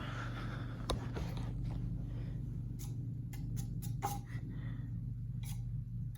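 52-inch Hunter Savoy ceiling fan coasting down after being switched off: a steady low hum, with a single sharp click about a second in and a run of light, sharp ticks in the second half.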